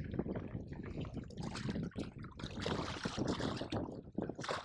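Water sloshing and splashing irregularly as a landed redfish is held in the water and moved about to revive it before release.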